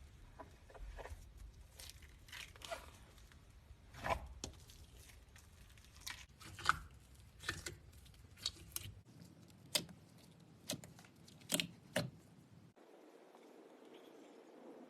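Slime being squeezed and stretched by hand, giving a string of sharp pops and crackles, irregularly spaced, about one a second. Near the end they stop and only a faint steady hiss remains.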